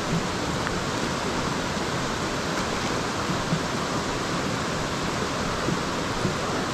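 Steady rushing of flowing water, an even noise with no change.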